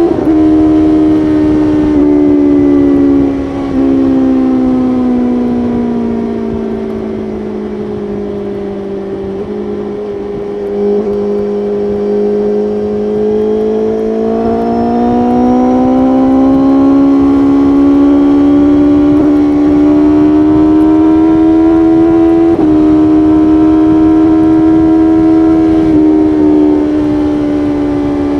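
BMW S1000RR's inline-four engine at highway speed, over a low rush of road and wind noise. The engine note sinks over the first several seconds as the throttle eases off, then climbs steadily again from about halfway through. It gives a sharp step in pitch near the end.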